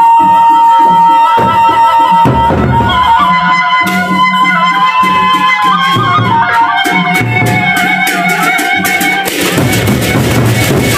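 Gendang beleq ensemble playing: large drums beating a steady rhythm under a held, wavering melodic line. Cymbals crash densely for the last couple of seconds.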